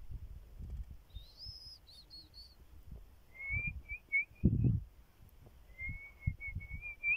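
Wild birds calling: a high whistled phrase, then two runs of quick short chirps. A few low bumps come in between, the loudest about four and a half seconds in.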